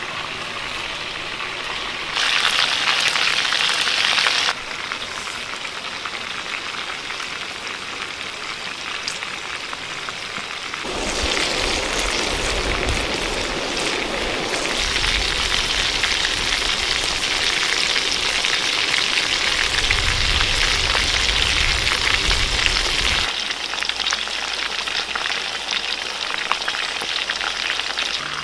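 Chicken pieces frying in hot oil in a clay pot over a wood fire, a steady sizzle that changes abruptly in level and tone several times.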